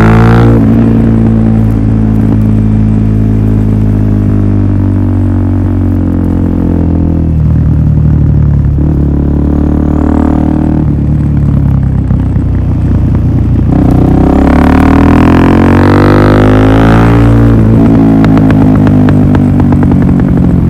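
Suzuki DR-Z400SM's single-cylinder four-stroke engine through a Yoshimura full exhaust system, running with the revs changing: they drop at the start, hold fairly steady, climb about two-thirds of the way through and fall again near the end.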